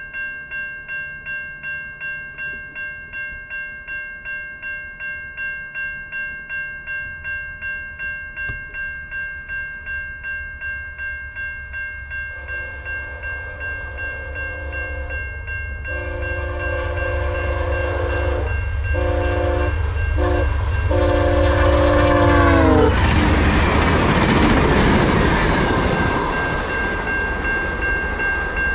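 Railroad crossing bell ringing at about two strikes a second while an approaching train sounds its horn in several blasts, the last one long. The horn's pitch drops as the locomotive passes about two-thirds of the way through, and the loud rush of the train going by follows.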